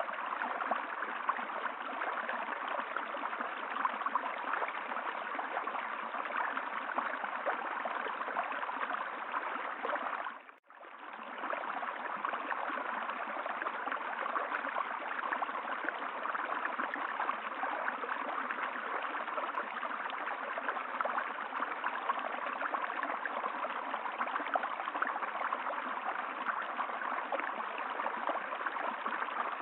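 Steady rushing and gurgling of a flowing stream. About ten seconds in it fades out for a moment and comes straight back.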